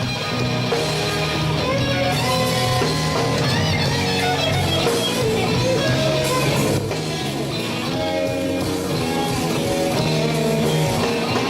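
Electric guitar soloing in a slow blues, with bent notes that glide in pitch, over the band's bass and rhythm.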